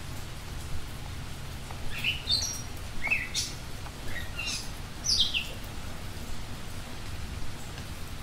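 Small birds calling: a run of short, sharp chirps, each sliding quickly down in pitch, bunched between about two and five and a half seconds in, over a steady hiss and low rumble.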